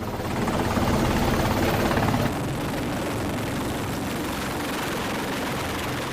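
Helicopter rotor and engine noise, a steady dense chop that swells in, drops a little in level about two seconds in, and fades near the end.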